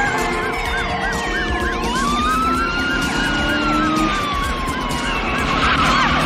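Several police sirens, one yelping fast at about three cycles a second and another wailing in long rising and falling sweeps, over running vehicle engines. A brief rush of noise comes near the end.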